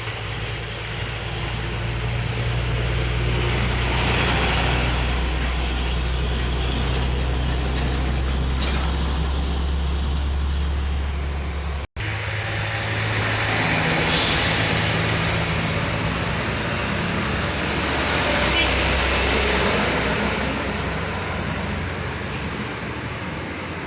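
Heavy diesel truck engines labouring at full throttle in a low gear, a steady low drone that swells and fades as the trucks creep past. The sound breaks off abruptly about halfway through, and a second passing truck follows.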